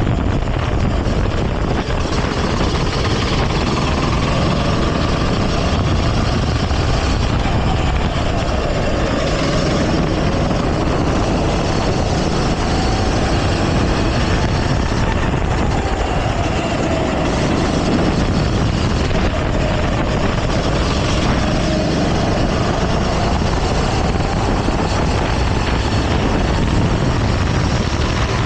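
Go-kart engine running hard on the track, its pitch rising and falling over and over as it accelerates and slows through corners, under a steady rush of noise.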